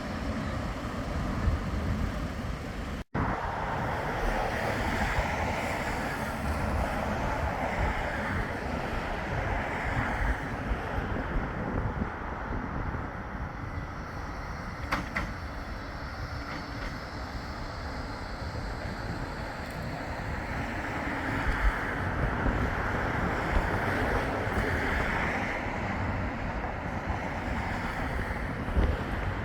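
Wind buffeting the microphone outdoors, an uneven low rumble over a steady rush that swells and fades a couple of times. The sound cuts out for an instant about three seconds in.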